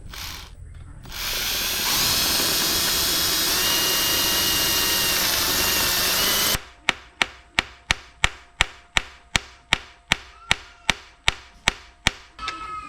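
A power tool runs steadily for about five seconds and cuts off suddenly. It is followed by a run of sharp, evenly spaced knocks, about three a second, during work on a diesel engine being taken apart.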